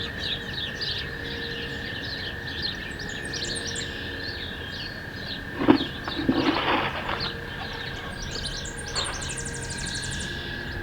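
Several small songbirds chirping, with a rapid high trill near the end, over a steady high tone. About halfway through comes a knock followed by a brief rustling scrape.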